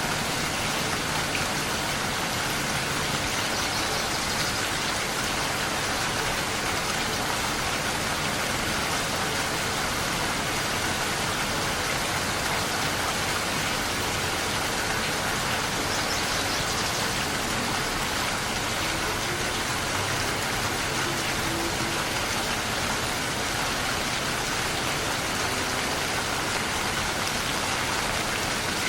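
Steady rain falling, a dense, even hiss with no thunder.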